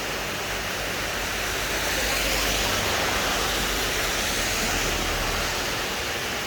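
Rain falling steadily, a continuous hiss that swells slightly in the middle, with a low rumble underneath for a few seconds.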